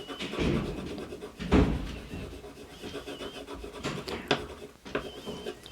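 Colour pencil scratching and rubbing across paper in irregular strokes as a tail is drawn and coloured in, a few strokes louder than the rest.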